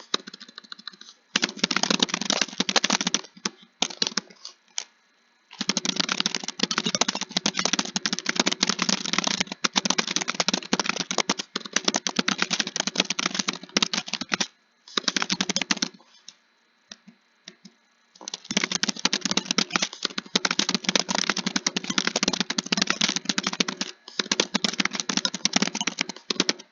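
Fast typing on a computer keyboard: runs of rapid key clicks lasting several seconds, broken by short pauses.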